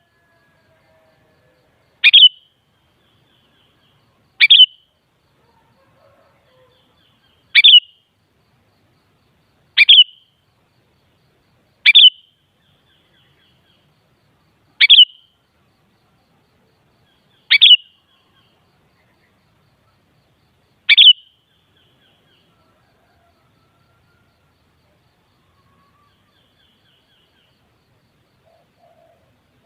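Sooty-headed bulbul (kutilang) giving eight short, sharp call notes, one every two to three seconds, then falling silent for about the last eight seconds.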